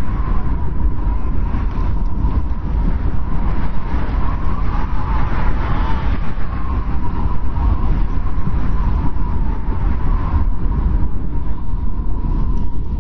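Blizzard wind blowing: a steady deep rumble under a thin whistling tone that wavers and swells around the middle.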